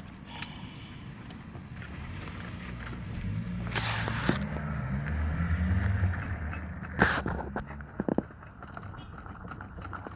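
Volkswagen Golf Mk4 engine running, its hum swelling for a few seconds midway as if revved, with a sharp knock just after seven seconds and smaller knocks soon after, on a car with a worn engine mount.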